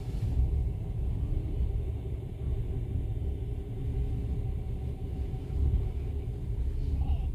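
Passenger train in motion: a steady low rumble from the running gear on the track.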